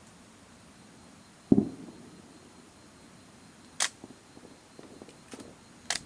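A distant firework shell bursting with a single deep boom about a second and a half in, trailing off briefly. Two sharp clicks follow later, with a few faint ticks between them.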